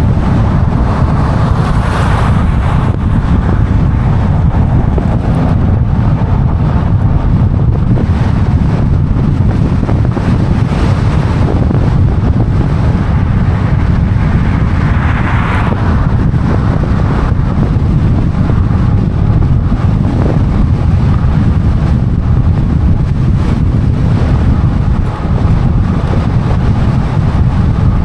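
Wind buffeting the microphone of a camera riding along on an e-bike: a loud, steady low rumble of noise, with brief swells of hiss about two seconds in and about halfway through.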